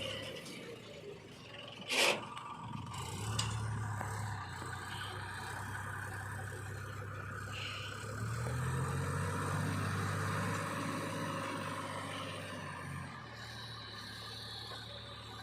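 Heavy diesel engine running steadily and revving up twice under load, with a sharp clank about two seconds in.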